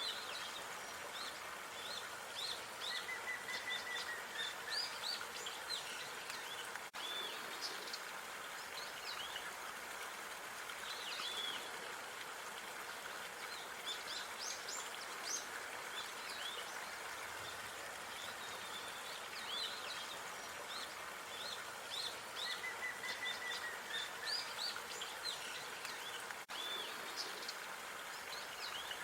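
Small songbirds chirping and calling again and again over a steady outdoor hiss, with a short trill twice.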